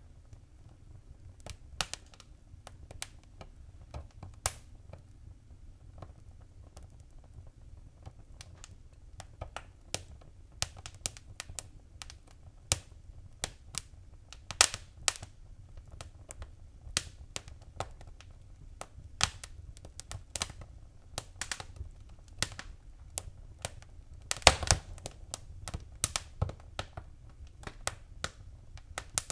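Fireplace fire crackling and popping: irregular sharp snaps over a low steady rumble, with a quick run of louder pops a few seconds before the end.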